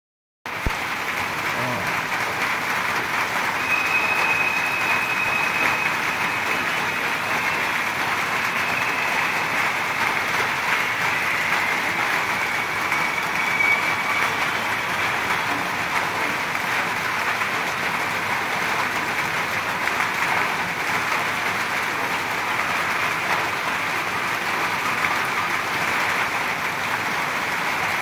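Heavy rain falling steadily, a dense, even patter without letup.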